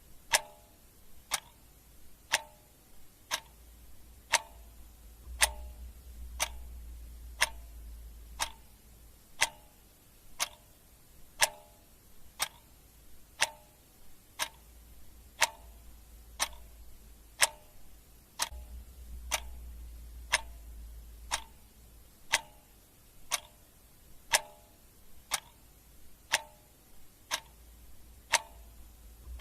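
Clock ticking steadily, one sharp tick a second, each tick with a brief ring.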